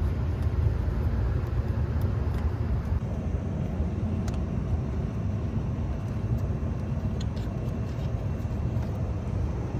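Steady low rumble with a few faint light clicks.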